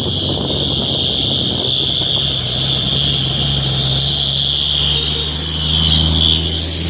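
Heavy diesel truck engine running under load, with its note rising slightly about five seconds in. A steady high-pitched whine carries on over it.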